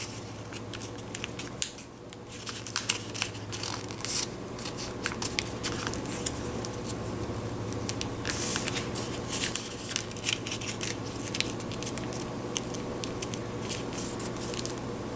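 A square sheet of origami paper being flipped, folded and creased by hand: crisp crackling and rustling with many short sharp clicks as the folds are pressed down.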